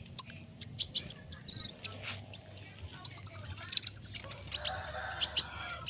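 Kolibri ninja (Van Hasselt's sunbird) calling: scattered sharp, high chirps and short trills, with a fast run of rising notes about three seconds in. A faint steady high hiss, like an insect, runs underneath.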